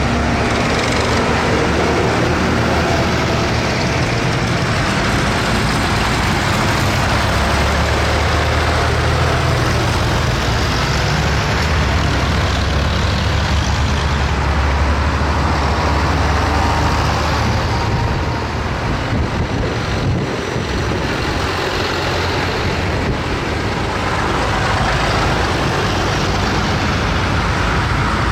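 Tractor engines running as a line of tractors drives past, a steady engine drone that eases for a moment about two-thirds of the way through.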